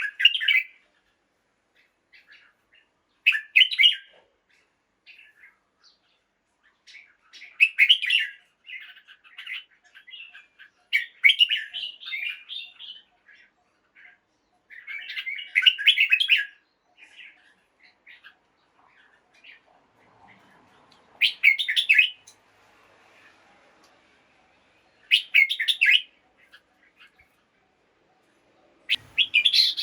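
Red-whiskered bulbul singing: short bright song phrases repeated every few seconds, with softer chattering notes between them.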